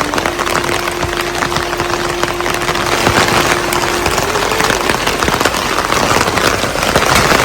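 Heavy rain falling as a dense crackle of drops, with a faint steady hum in the background that steps up in pitch about four seconds in.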